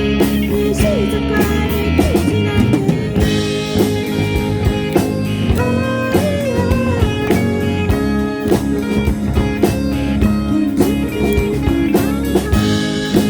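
A rock band playing an instrumental passage: a lead guitar line with bent, sliding notes over drums and a steady bass.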